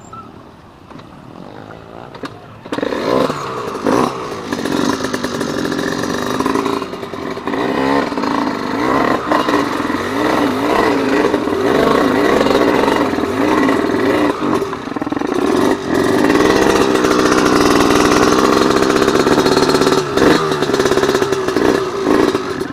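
Off-road motorcycle engines running and revving, starting loudly about three seconds in, the pitch rising and falling repeatedly.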